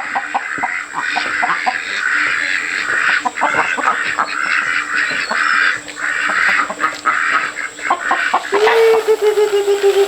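A busy chatter of many short bird calls, with one longer held call near the end, over a faint steady high whine.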